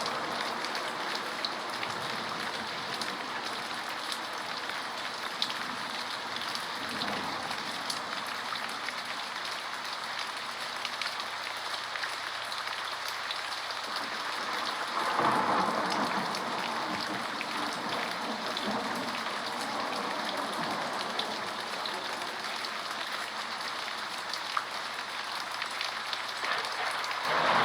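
Steady heavy rain, with fine drop ticks over an even hiss. It swells louder and deeper about halfway through and again near the end.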